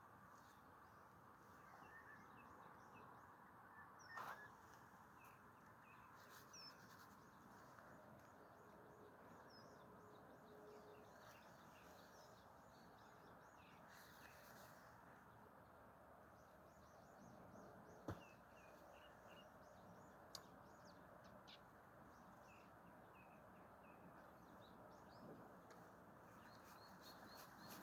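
Faint outdoor ambience: a steady low hiss with small bird chirps scattered throughout, and a couple of brief knocks, one about four seconds in and one near eighteen seconds.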